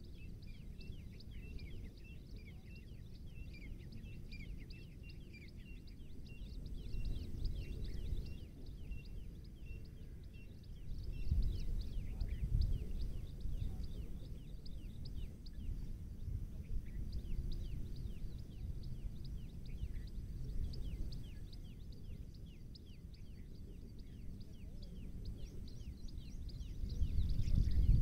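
Birds calling with rapid, repeated short chirps, many overlapping at once, with an evenly repeated note in the first few seconds. Underneath is a low rumbling noise that swells about eleven seconds in and again near the end.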